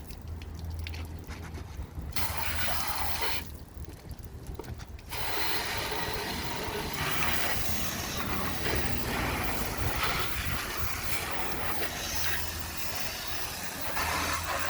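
Water spraying from a hose onto a car during a wash, a steady hiss that stops briefly twice in the first five seconds, then runs on.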